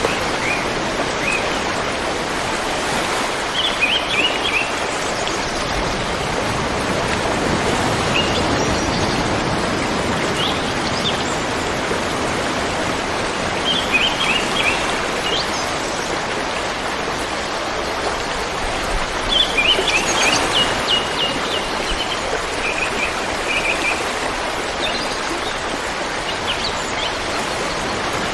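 A river flowing with a steady rush of water, while small birds chirp in short high runs every few seconds.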